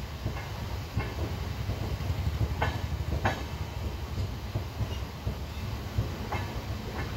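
Indian Railways express train coaches heard from an open coach door while moving: a steady low rumble of wheels on the track, with half a dozen sharp clicks as the wheels pass over rail joints, the loudest two about a second apart midway.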